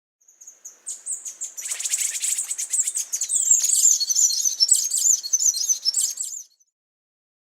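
Scrub tanager calling: a rapid, high-pitched twittering chatter that lasts about six seconds, with one falling sweep about halfway through.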